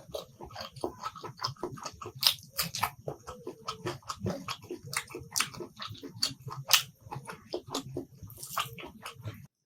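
Close-miked wet chewing and lip smacking while eating rice with soyabean chunk curry: a fast, uneven run of short mouth clicks and smacks. It stops abruptly just before the end.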